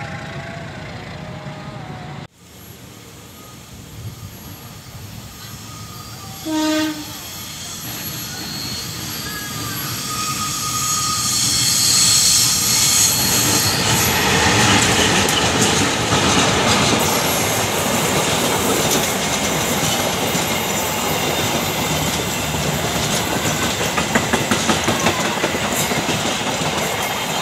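A passenger train rolls away, then the sound cuts to a double-headed train with two diesel-electric locomotives approaching. About seven seconds in it gives one short horn blast, and it grows louder as it nears. Its passenger cars clatter past close by, the wheels clacking over the rail joints.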